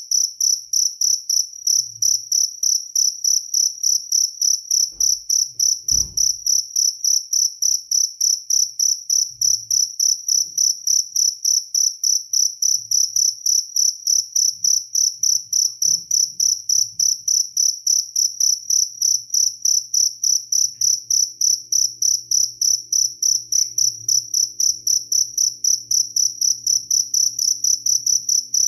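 Jaliteng field cricket chirping: a loud, high chirp repeating evenly about three to four times a second, with a brief low thump about six seconds in.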